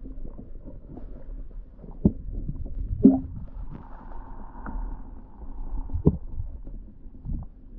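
Muffled knocks and bumps against a kayak over low rumbling handling noise. Three sharper thumps stand out, about two, three and six seconds in.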